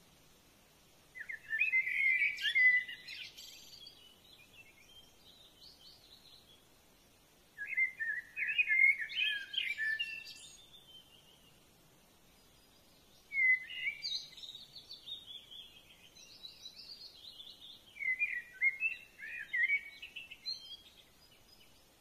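Songbird singing four short, quick warbling phrases of two to three seconds each, separated by pauses of a few seconds, over faint background hiss.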